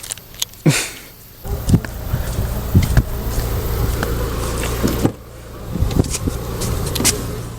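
Car running along the road, heard from inside the cabin: a steady low engine and road rumble, with a few knocks and clicks.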